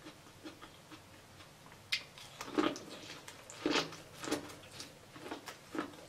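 Close-up mouth sounds of someone biting and chewing sauce-coated corn on the cob. There is a sharp click about two seconds in, then short wet smacks and bites every second or so.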